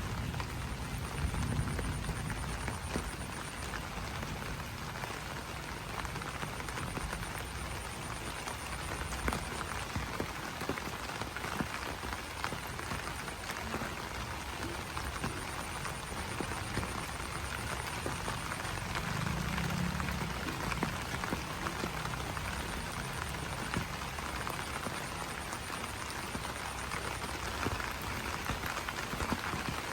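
Steady rain falling on banana leaves, a constant patter dotted with individual drop ticks. A faint high pulsing trill comes and goes in stretches of a few seconds.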